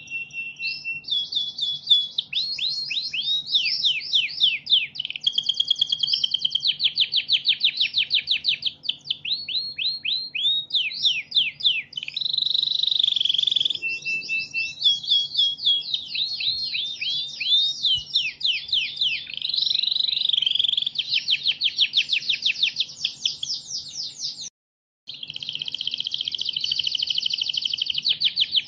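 Canary singing a long, continuous song of fast trills (rolls of rapidly repeated notes) mixed with short whistled phrases, over a faint low hum. The song breaks off for an instant about 25 seconds in, then goes on.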